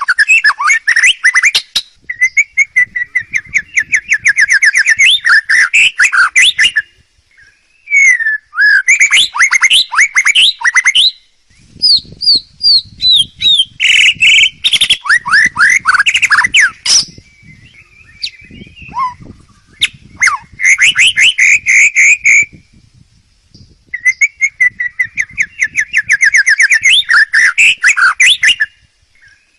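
A songbird singing loud, varied phrases of rapid trills and whistled notes, in bursts with a few short pauses.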